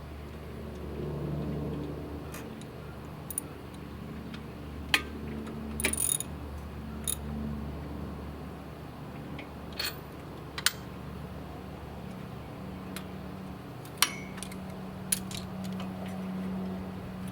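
Scattered sharp metallic clicks and clinks of hand tools, with the spark plug being refitted to the mower's Briggs and Stratton engine, over a low steady hum.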